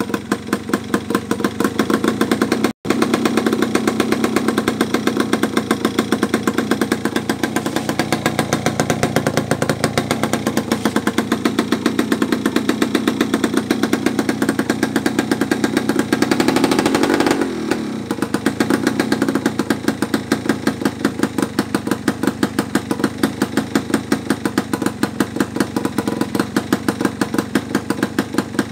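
Yamaha F1ZR single-cylinder two-stroke engine idling with an even putter through a homemade cardboard exhaust. It is blipped once about two-thirds of the way through, rising briefly, then settles back to idle.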